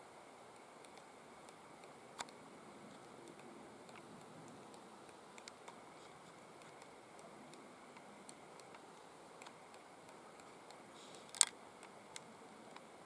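A three-toed woodpecker pecking at bark: a few scattered, irregular sharp taps over faint steady hiss, with the loudest short cluster of taps about eleven seconds in.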